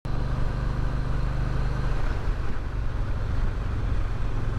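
Motorcycle engine running steadily at cruising speed while riding, with wind noise over the microphone.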